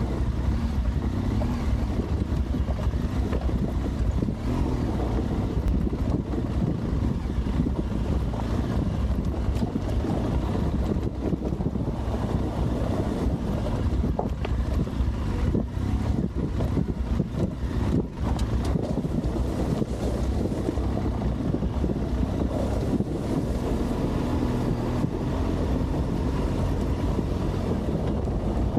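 Adventure motorcycle engine running steadily while riding on loose gravel, with wind rushing over the microphone and a few short knocks.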